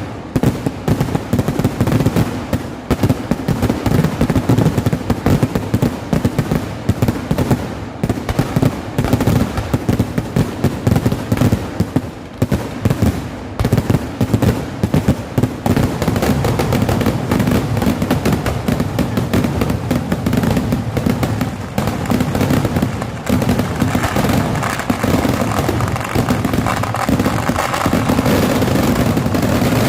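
Festival fireworks finale: a dense, rapid barrage of firecracker bangs that grows into an almost unbroken stream of explosions over the last several seconds.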